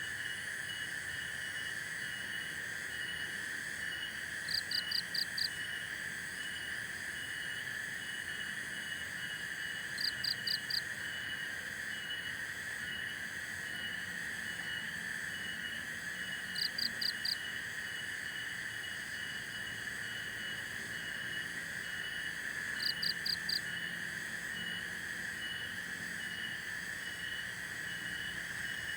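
Forest chorus of calling insects and frogs. A steady high-pitched drone runs throughout, with a short chirp repeating about twice a second. About every six seconds a louder call of four quick pulses sounds, four times in all.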